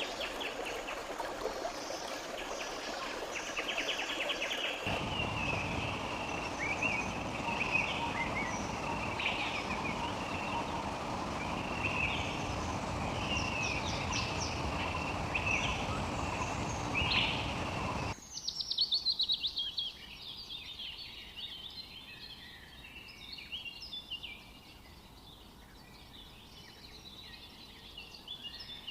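Wild birds chirping and calling in short notes and trills over a steady background hiss. The background grows louder about five seconds in, then drops away abruptly after about eighteen seconds, leaving faster, denser chirping.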